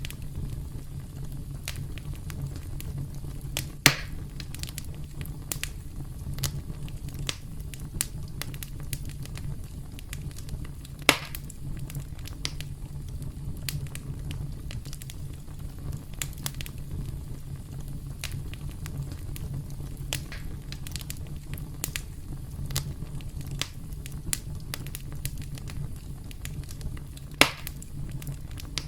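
Campfire crackling: a steady low rumble of burning under many scattered sharp snaps and pops, three of them louder, about 4, 11 and 27 seconds in.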